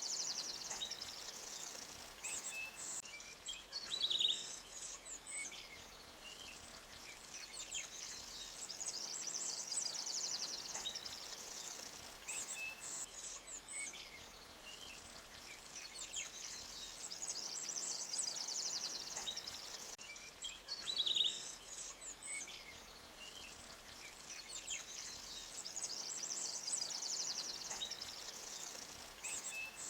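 Forest ambience: birds chirping over a high, rapidly pulsing trill that swells and fades every few seconds, with a faint steady hiss of a flowing stream underneath.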